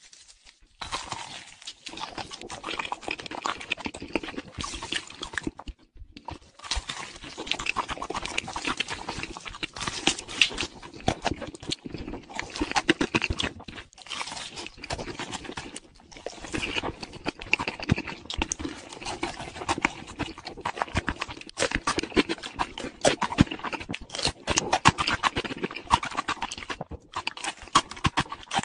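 Close-up eating sounds: crunchy food being bitten and chewed with dense, crackly crunches and mouth smacking, broken by a few brief pauses.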